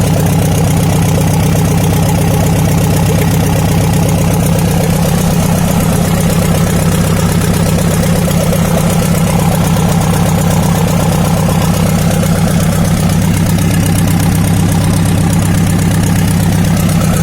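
Nissan FD42 4.2-litre straight-six diesel with a mechanical injection pump idling steadily, cold on its first start. It runs evenly with no abnormal noises.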